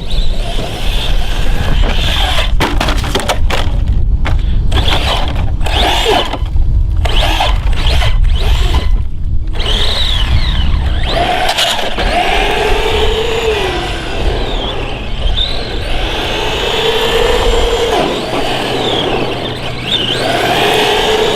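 Vaterra Halix 1/10-scale RC monster truck driving, its electric brushless motor whining up and down in pitch with the throttle over rough tyre and terrain noise. The first half is choppy and broken; the rising and falling whine is clearest in the second half.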